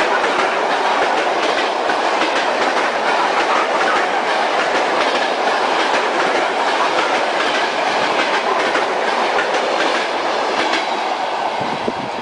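Train wheels clattering over the rails with a steady rushing rumble, as heard riding inside a moving train, with faint, irregular clicks throughout.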